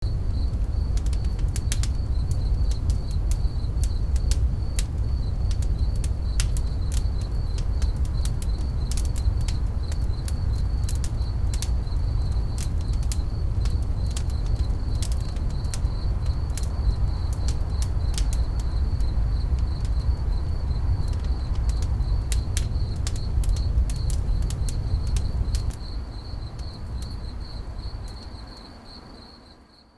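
Campfire crackling with irregular sharp pops over a steady low rumble, with crickets chirping steadily in the background. It all fades out over the last few seconds.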